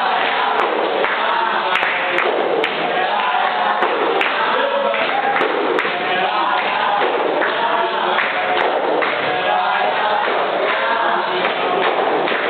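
Capoeira Regional roda music: a group singing together over the berimbau and pandeiros, with scattered sharp percussive strikes.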